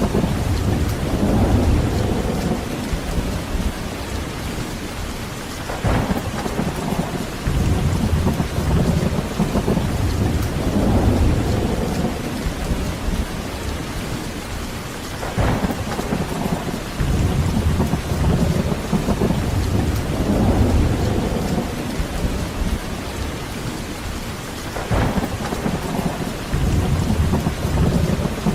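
Heavy rain falling steadily, with thunder rumbling low in repeated swells every few seconds. A brief sharper crack comes three times, about nine seconds apart.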